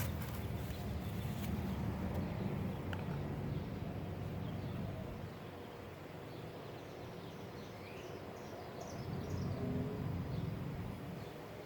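Outdoor background noise with a steady low rumble, and a few faint bird chirps in the second half.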